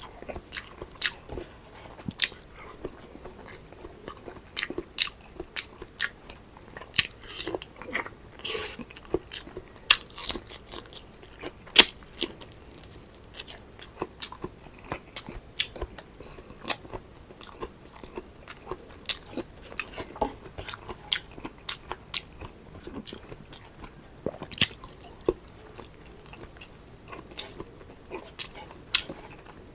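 A person chewing and biting food, with many irregular sharp wet mouth clicks and crunches.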